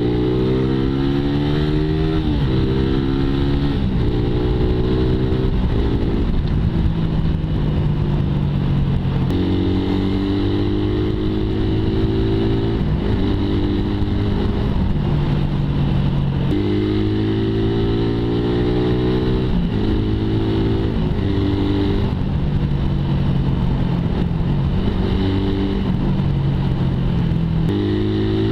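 Suzuki Raider 150's single-cylinder four-stroke engine through an aftermarket exhaust with no catalytic converter, pulling under way: the note climbs in pitch and drops sharply at each upshift, several times over, with stretches of steady cruising in between.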